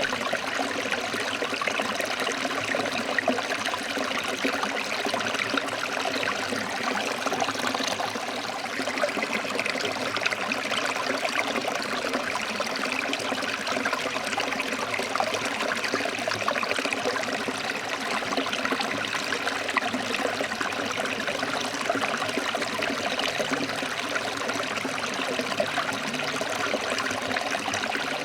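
A forest stream flowing over rocks: a steady, continuous rush of water with no pauses.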